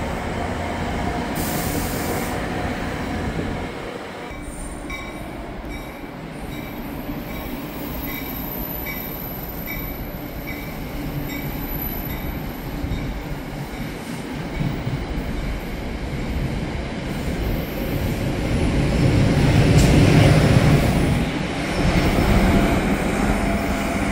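NJ Transit commuter train of single-level coaches pulling out, its steel wheels rumbling on the rails and fading, then swelling louder again near the end.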